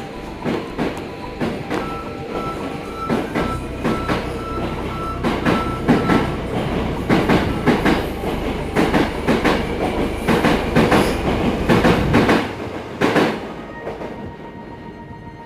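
Hankyu limited express train pulling out, its wheels clacking over the rail joints faster and faster as it gathers speed past, then fading away near the end.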